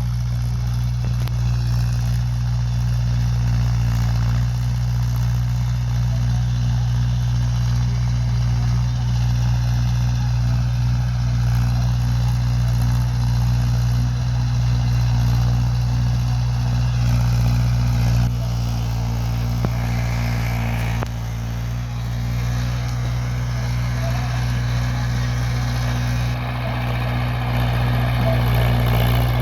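Tractor diesel engine running steadily with a low, even drone, as when pulling a rotavator through a field.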